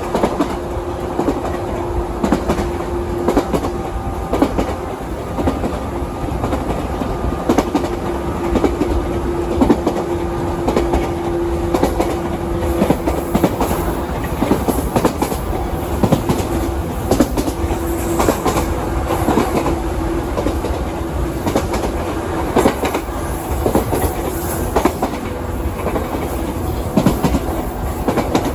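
JR 117 series electric train heard from inside the carriage while running: wheels clacking over rail joints under a steady rumble. A steady whine runs along with it and drops out briefly a few times.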